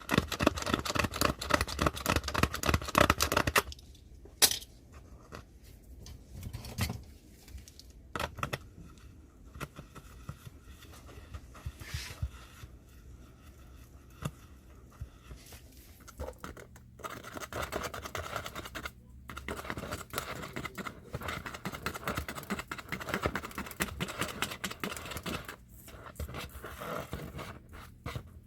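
Hand tools scraping and cutting at a 10-inch woofer being repaired, in rapid rasping strokes: a dense spell at the start, scattered clicks and scrapes, then a long steady spell of scraping in the second half.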